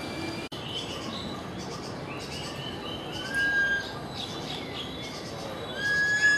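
Birds calling: repeated short chirps, with a clear held whistle about three seconds in and another, louder one near the end.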